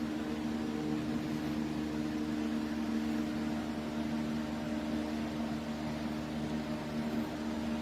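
LEVOIT OasisMist humidifier running, a steady hum with a few held tones over an even hiss.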